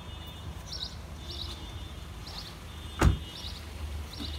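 A small bird chirping over and over in short high calls, against a low steady rumble, with one sharp thump about three seconds in.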